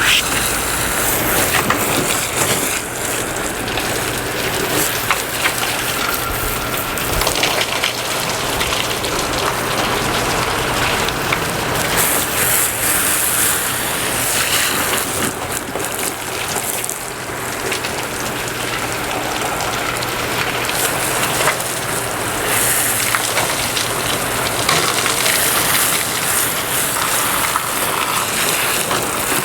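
Water spraying from a hose onto a boat's top as it is rinsed after ceramic coating, a steady rain-like hiss of water hitting the surface, with a faint low hum underneath.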